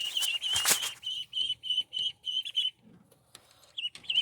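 Ducklings peeping: a run of short, high, evenly repeated peeps at about six a second. A brief burst of rustling or wing-flapping comes early on.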